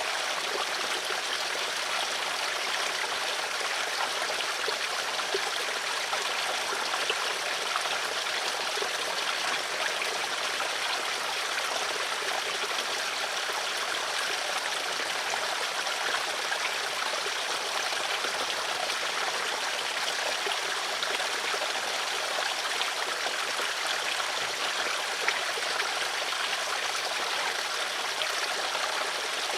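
Small stream of water flowing and trickling steadily, with a busy, fine-grained splashing.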